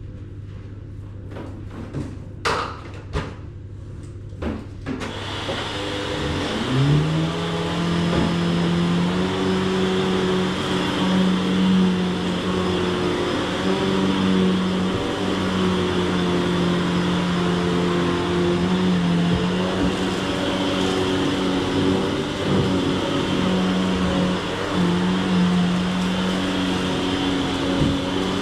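A few sharp clicks and knocks, then the Shark Stratos XL Pet Pro upright vacuum's motor starts about five seconds in, its whine rising in pitch for a second or two before settling. It then runs steadily for the rest of the time.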